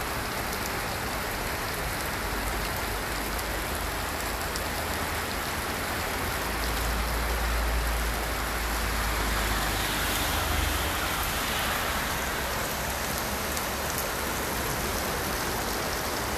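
Heavy rain falling steadily and spattering on hard surfaces, with scattered drop clicks. A low rumble swells in for a few seconds around the middle, then fades.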